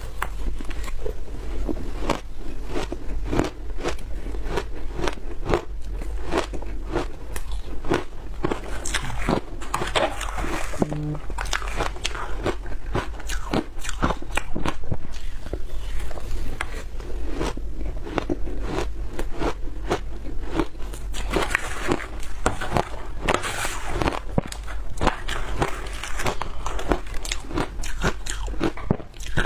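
Close-miked biting and chewing of frozen food: a dense, continuous run of hard crunches and cracks.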